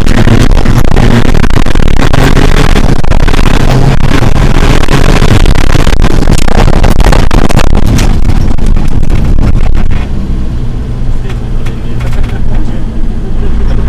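Rally car engine heard from inside the cabin, running hard under full load at stage speed, loud and distorted. About ten seconds in it drops off to a quieter, steadier engine note as the throttle is lifted.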